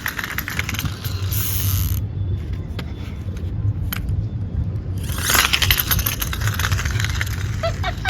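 Friction-powered toy car's flywheel gears whirring with a fast ratcheting clatter, in a spell of about two seconds and then, after a pause, a longer spell of about three seconds, over a steady low rumble.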